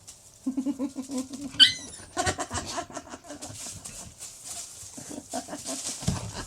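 Dogs growling in rapid pulses, with one sharp high yelp about one and a half seconds in, then more growling.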